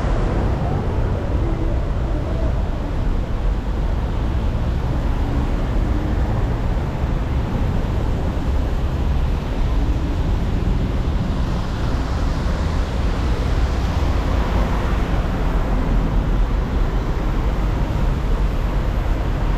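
City street traffic: a steady noise of passing cars with a heavy low rumble, and one vehicle passing louder about twelve to fifteen seconds in.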